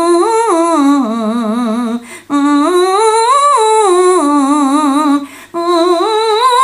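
A singer's voice humming wordless scale phrases as a vocal exercise, with the tone meant to be supported by vocal fry and placed through the nasopharynx. There are three phrases, each rising and falling with a fast wavering in pitch, and each starts higher than the one before.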